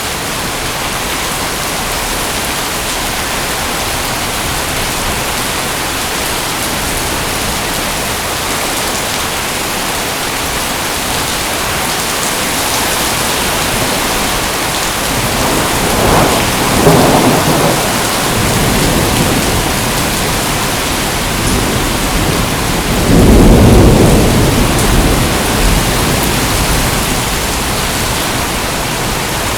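Steady heavy rain hissing, with two rolls of thunder swelling in: one a little past halfway and a louder, deeper one about three-quarters through.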